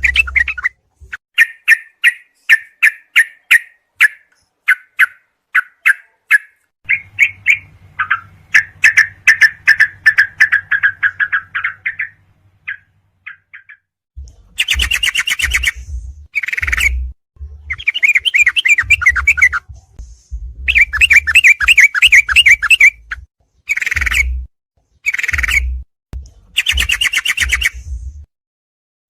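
Recorded birdsong playback of yellow-vented bulbul (trucuk) calls: first a series of short repeated chirps about two a second, then from about halfway longer bursts of chattering song separated by brief gaps, each with a low thump underneath.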